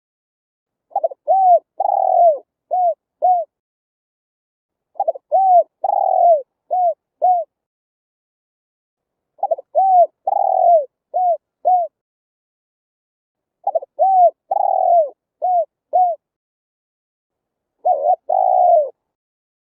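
Spotted dove cooing: five repeated phrases about four seconds apart, each a couple of short coos, one longer falling coo, then two more short coos.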